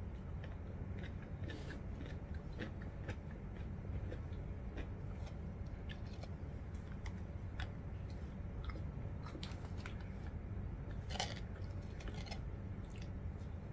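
A person chewing food close to the microphone, with scattered small mouth clicks over a steady low hum.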